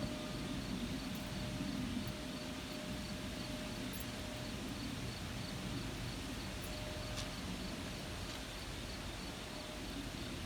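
Outdoor ambience: crickets chirping in a steady, evenly spaced pulse over a continuous low rumble.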